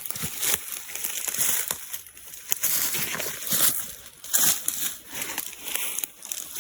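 Irregular rustling and crunching of vegetation with wet sloshing, from someone moving through swampy undergrowth.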